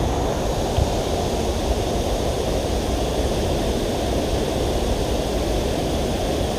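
Creek water rushing over a small rocky waterfall: a steady, even low rush.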